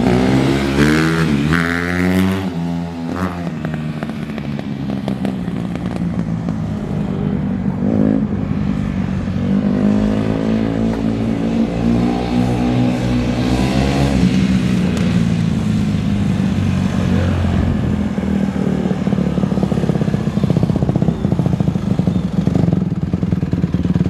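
Honda CRF150R dirt bike's single-cylinder four-stroke engine running. The revs rise and fall at the start and again about ten seconds in, and the engine holds a steadier note in between and toward the end.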